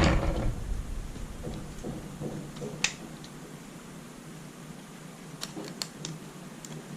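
A few light clicks and taps of laptop parts being handled during disassembly: one sharp click about three seconds in, then a quick run of four clicks near the end, over a faint steady hum.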